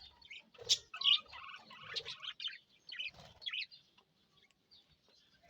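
A colony of budgerigars chattering, with many overlapping short chirps and warbles, busiest in the first few seconds and thinning out near the end.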